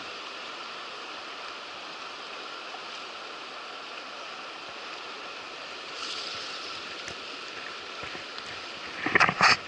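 Rushing river water from fast-flowing rapids, a steady hiss. Near the end comes a short burst of louder sharp knocks.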